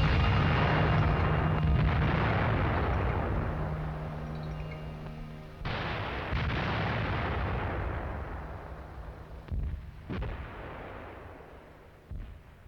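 Bomb explosions: a heavy blast that rumbles away over several seconds, a second one a little over five seconds later with the same long fading rumble, then a few fainter thumps near the end. A low held note hangs under the first blast.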